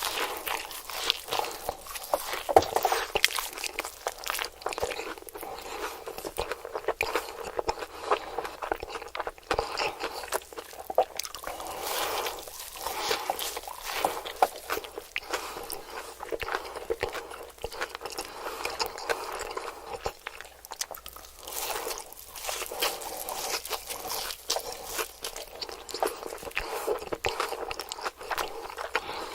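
Eating with a mouth close to the microphone: crunchy bites and chewing, an irregular run of crisp crackles throughout.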